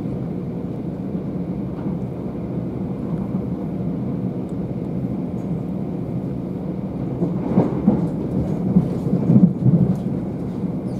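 Class 375 Electrostar electric multiple unit running at speed, heard from inside the carriage: a steady low rumble of wheels on rail. About seven to nine seconds in there is a run of louder knocks and rattles.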